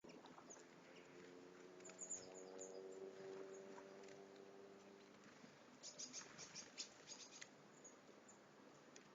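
Faint, short high chirps and clicks from small garden birds, a few about two seconds in and a quick cluster of them between about six and seven and a half seconds. A steady low hum made of several tones runs underneath for the first five seconds, then fades.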